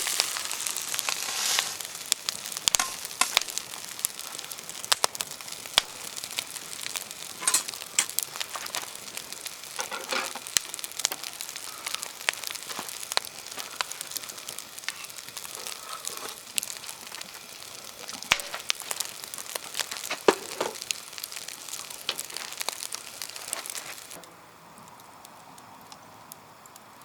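Fried rice sizzling in an iron camp wok over a campfire, with frequent sharp clicks and taps. The sizzling cuts off abruptly near the end.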